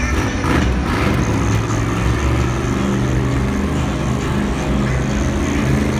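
Monster truck engines running loud and steady, their pitch shifting a few times as the throttle changes.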